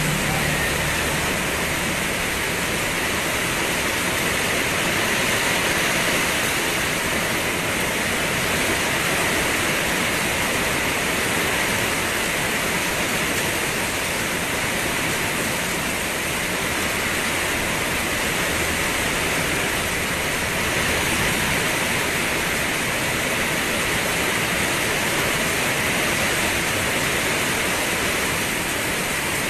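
Rain falling steadily: an even hiss that holds level.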